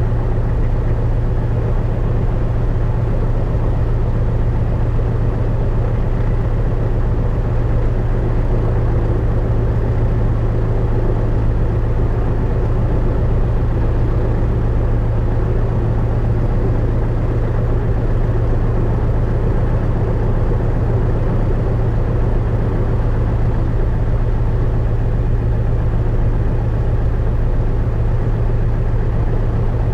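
Cessna 172RG's four-cylinder Lycoming engine running steadily at low power, a constant loud drone heard inside the cabin.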